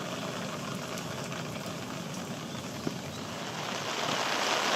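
Rain falling steadily, a hiss of rain on foliage that grows louder and heavier near the end.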